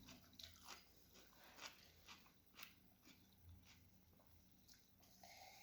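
Near silence with scattered faint, soft mouth clicks of someone chewing food.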